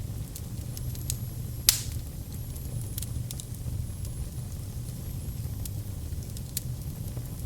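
Wood fire burning in a fireplace: a steady low rumble of flames with scattered crackles, and one loud pop nearly two seconds in.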